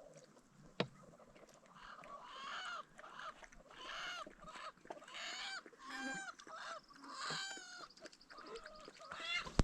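Domestic fowl calling again and again in short pitched calls, several a second, with a single sharp click about a second in.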